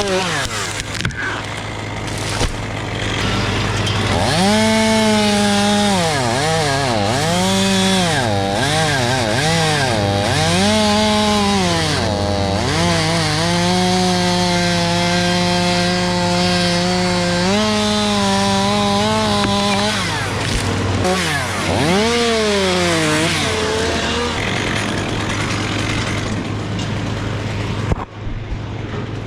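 Chainsaw revved up and down over and over, then held at full throttle for a few seconds, as when cutting. A steady lower engine hum runs underneath.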